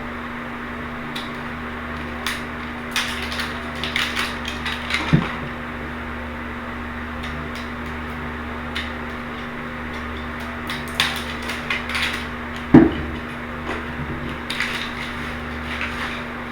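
Scattered light clicks, taps and knocks of hard objects being handled, with two sharper knocks about five seconds in and near thirteen seconds, over a steady low hum.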